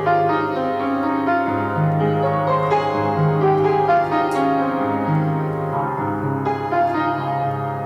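Piano music: a slow melody over held bass notes that change about every second and a half.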